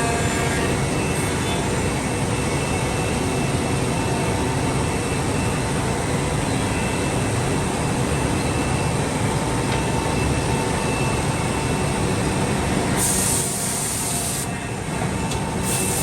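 Five-axis CNC woodworking machining centre running and cutting, a loud, steady, dense mechanical noise with a faint steady whine in it; the hiss changes near the end.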